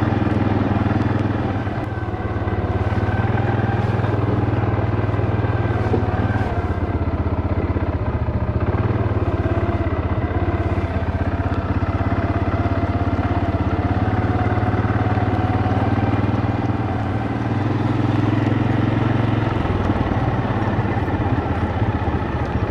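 Small vehicle engine running steadily under way, its pitch drifting slightly with the throttle.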